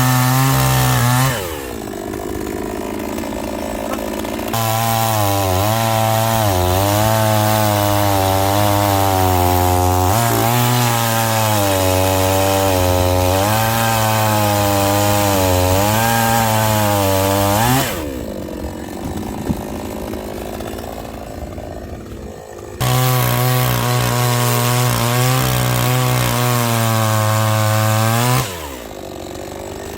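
Chainsaw cutting firewood: the engine runs at full throttle with its pitch sagging and recovering under load, then falls back to idle between cuts, three times in all.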